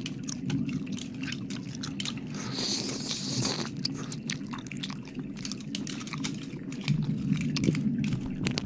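Close-miked wet mouth sounds: a dense run of quick clicks and smacks of licking, with a breathy hiss about two and a half seconds in, over a steady low rumble.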